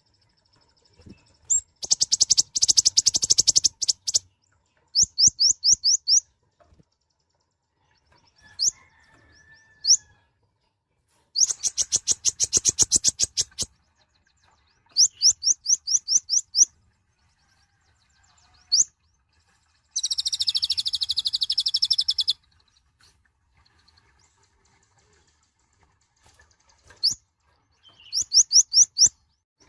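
Kolibri ninja (konin) sunbird singing: bursts of very rapid, high-pitched chirping trills, each a second or two long, with short pauses between. A longer, buzzier trill comes about two-thirds of the way through.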